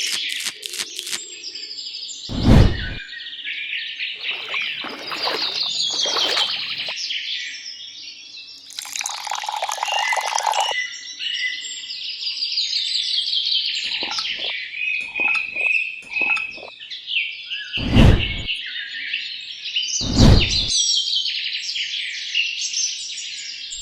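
Birds chirping steadily, with three sharp, loud knocks about two and a half seconds in and twice near the end, and a short hiss in the middle.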